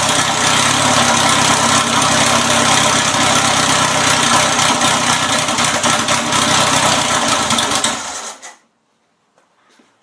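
Air-cooled VW 1600cc flat-four engine, out of the car on a test stand, running steadily. It stops abruptly about eight seconds in, leaving near silence with a few faint clicks.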